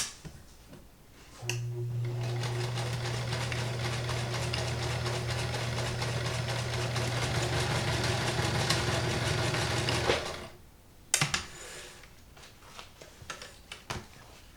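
Kenmore 158.19311 sewing machine running steadily at speed, sewing its widest zigzag stitch, starting about a second and a half in and stopping after about nine seconds. A few sharp clicks follow once it stops.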